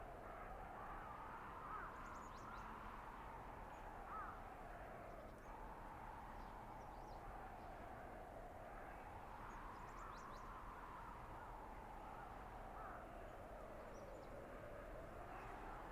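Blizzard wind howling through a winter forest, its whistling pitch slowly rising and falling in long gusts. Faint short bird calls come through it now and then.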